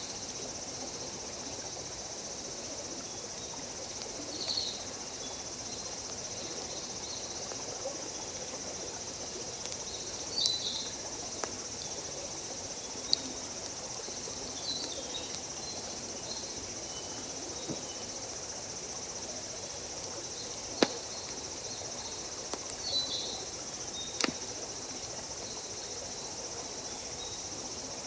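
Steady high-pitched chorus of crickets and other insects, with short chirps now and then, and a few sharp pops from a wood campfire crackling.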